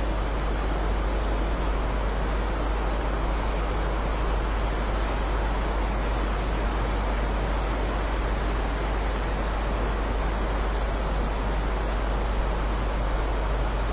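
Steady rainfall, a continuous even hiss with no single drops or thunder standing out.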